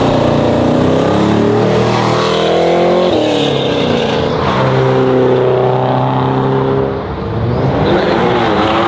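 Car engine accelerating hard as it pulls away. The engine note climbs and then drops at each gear change, several times over.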